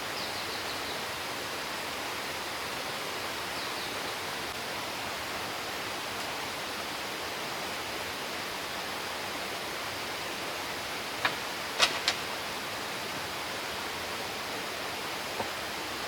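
Steady rush of falling water from a waterfall, with a few sharp clicks or knocks about two-thirds of the way through and one more near the end.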